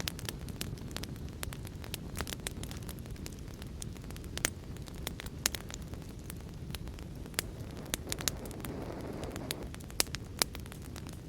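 Wood fire crackling in a fireplace: a stream of sharp clicks and a few louder pops over a steady low rumble.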